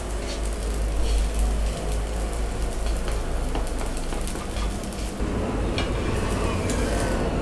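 Chapati sizzling in oil on a nonstick tawa, with a spatula scraping and tapping the pan as the flatbread is pressed and turned. A steady low rumble runs underneath, and the sizzle grows a little louder about five seconds in.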